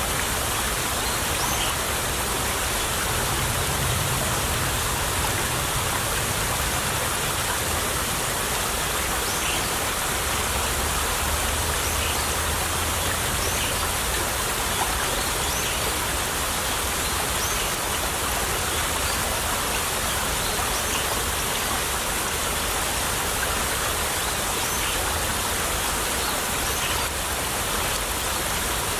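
Small stream of water trickling and babbling, a steady even rush with no let-up.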